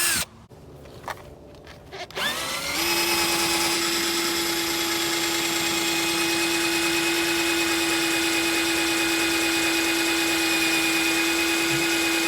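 Power drill spinning a polishing ball, starting about two seconds in, rising quickly to speed and then running with a steady whine at one pitch.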